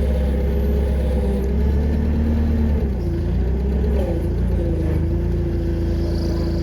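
Engine running steadily, its pitch shifting a little about three and four seconds in.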